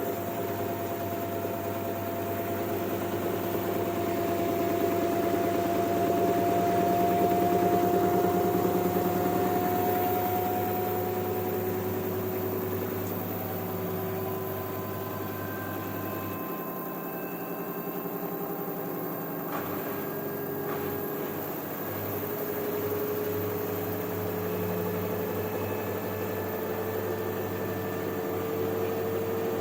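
LG washing machine running, its motor whine slowly rising and falling in pitch as the drum changes speed, over a steady hum.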